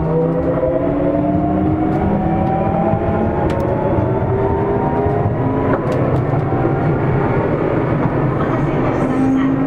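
Sotetsu 8000 series electric train under way, its Hitachi IGBT-VVVF inverter and traction motors whining with several tones that climb in pitch as the train accelerates, over steady wheel and rail rumble. A couple of sharp clicks mid-way, and a new steady tone sets in near the end.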